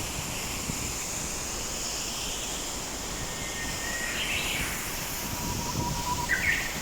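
Steady rush of a waterfall with wind buffeting the microphone, and a couple of short high bird chirps, about four seconds in and near the end.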